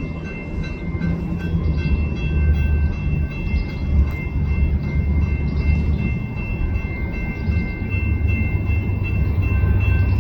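A train rolling past with a steady, loud low rumble, and a few thin, steady high-pitched whining tones running above it.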